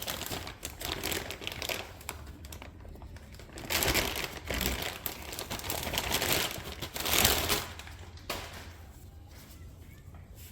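Packaging crinkling and rustling in uneven bursts as a new part is unwrapped and handled, quieter near the end.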